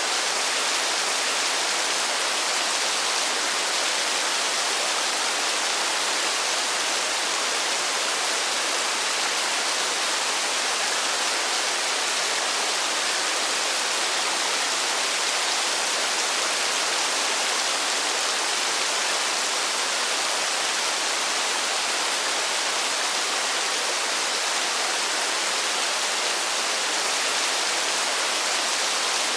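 Steady rain falling, an even hiss with no distinct drops, thunder or changes.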